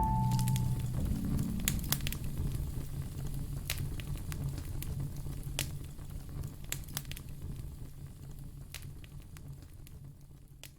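Wood fire crackling in a fireplace, with scattered sharp pops over a low rumble, growing quieter and fading out near the end.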